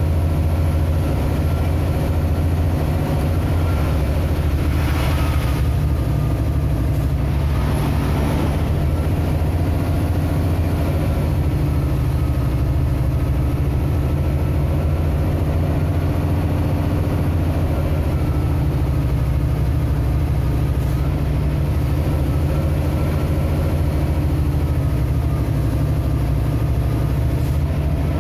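Steady low drone of a vehicle's engine and road noise while driving, with two brief rushing swells about five and eight seconds in.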